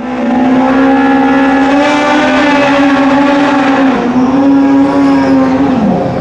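Drag racing motorcycle engine held at high revs with a fairly steady pitch. It dips briefly about four seconds in, then falls near the end as the throttle comes off.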